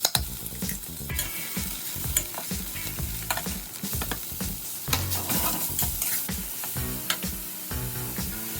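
Food sizzling as it is stir-fried in a hot pan, with frequent clicks and scrapes of the spatula against the pan.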